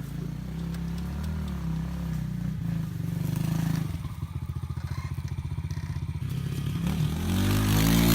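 Pit bike engine running at idle, with a steady, even firing beat through the middle. Near the end it is revved up and back down.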